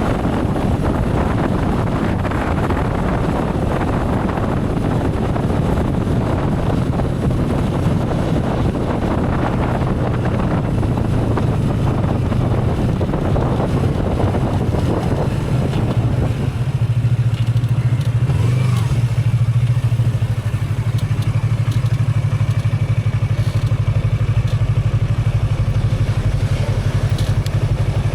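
Motorcycle engine running under the rider, with wind and road noise on the microphone. About halfway through, the wind noise drops away and a steady low engine note carries on alone, as the bike slows.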